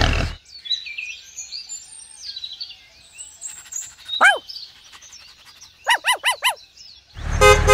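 Birds chirping faintly. About four seconds in comes one louder call that sweeps down in pitch, and around six seconds a quick run of four rising-and-falling calls.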